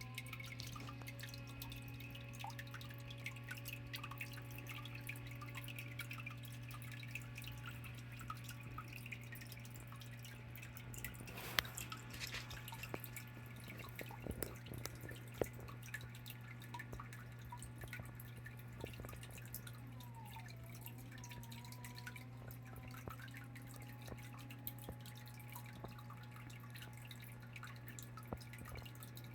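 Water trickling and dripping from a small rock waterfall into a biotope pond, a stream of fine irregular drips over a faint hiss, with a steady low hum underneath.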